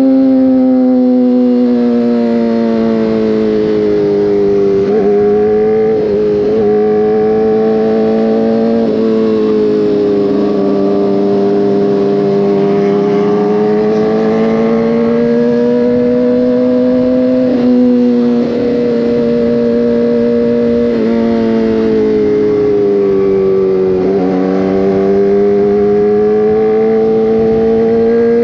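Motorcycle engine heard from the bike while riding, running under steady load, its revs rising and falling gently, with a few brief dips in pitch as the throttle is eased or a gear changes.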